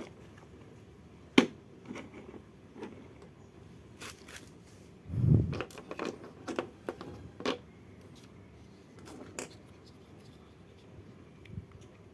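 Small hard toy parts being handled: scattered clicks and knocks, with a dull thump and a quick run of knocks about five seconds in.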